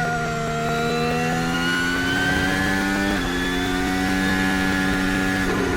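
Red Bull Formula 1 car engine running at high revs. The pitch dips slightly, climbs gradually over a couple of seconds, then holds steady.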